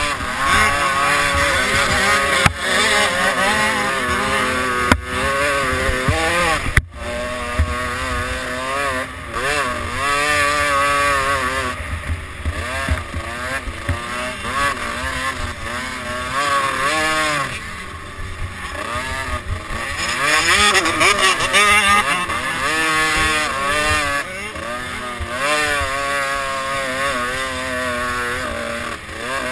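Motocross bike engine heard from on board while racing, its revs rising and falling over and over through acceleration, gear changes and corners. A few sharp knocks come in the first seven seconds.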